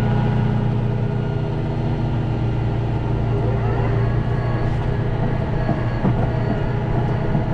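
Tractor engine running steadily under load, a constant low hum with a few faint whines drifting in pitch midway.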